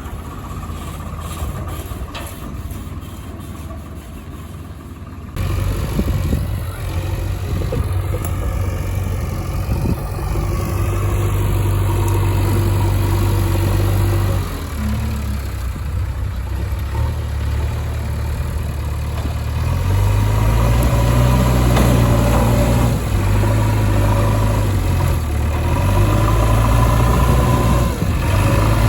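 Heavy diesel engine running close by. It comes in suddenly about five seconds in, after a stretch of lower noise, then holds a steady low drone whose pitch steps up and down several times as the revs change.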